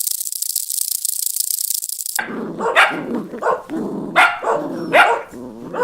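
A dry, high-pitched rattling hiss cuts off abruptly about two seconds in. A dog then barks in a series of short, upward-sliding barks, about one every two-thirds of a second.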